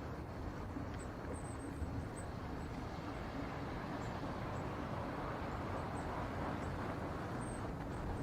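Strong wind buffeting the microphone: a steady, dense noise heaviest in the low end, from a windstorm blowing past a windshield that is not keeping it out.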